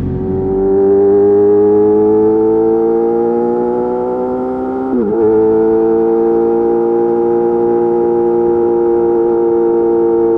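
Yamaha YZF-R6's inline-four running through an M4 GP slip-on exhaust under acceleration. The pitch climbs for about five seconds, dips and breaks briefly at a gear change, then holds nearly steady.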